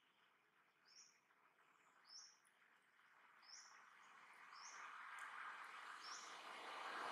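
A small bird chirping, short high notes repeated about once a second, over a faint hiss that swells toward the end.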